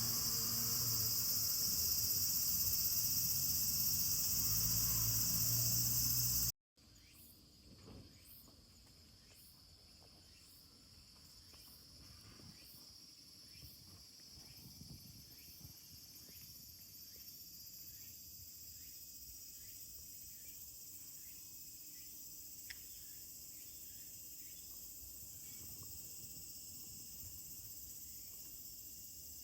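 Evening insect chorus, a steady high-pitched chirring. It is loud for the first six seconds or so, cuts off suddenly, then comes back much fainter and slowly grows.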